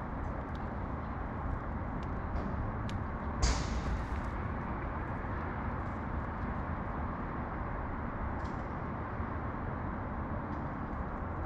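Steady low hum of city traffic, with a few faint clicks and one brief, louder noisy rustle about three and a half seconds in.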